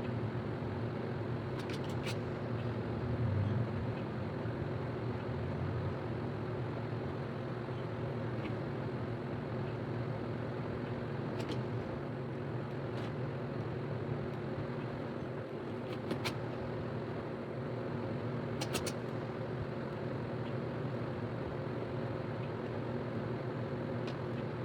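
A steady low mechanical hum with a constant pitch, and a few short, sharp clicks now and then.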